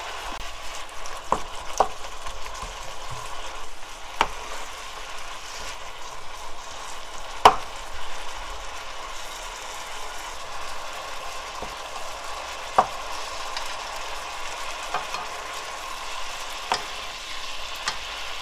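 Beef bulgogi in its marinade bubbling and sizzling in a nonstick wok as it cooks, a steady hiss. A dozen or so sharp clicks of a wooden spoon against the pan are scattered through it, the loudest about seven seconds in.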